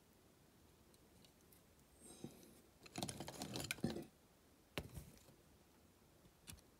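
Faint clicks, taps and small rattles of a die-cast toy van and its small metal parts being handled and worked on. There is a short cluster of rattling clicks about three seconds in and a single sharp click near five seconds.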